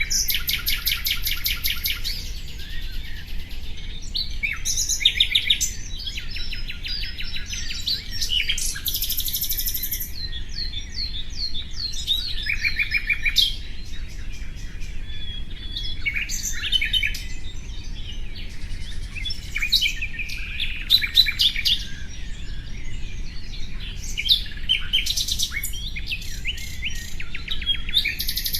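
Nightingale singing a varied, continuous song of rapid trills, repeated notes and short whistled phrases, with brief pauses between phrases.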